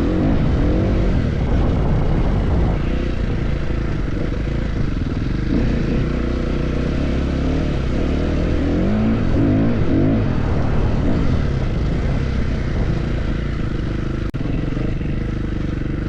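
Off-road motorcycle engine running under riding load, its pitch rising and falling with the throttle, over a steady rush of noise.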